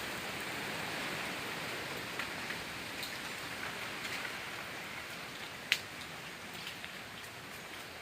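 Heavy rain falling: a steady hiss with scattered sharp drop hits, one louder tick about six seconds in, slowly easing.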